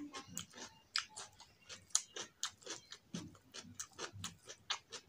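Close-up chewing and lip smacking on a mouthful of rice and potato curry, in irregular wet clicks a few times a second.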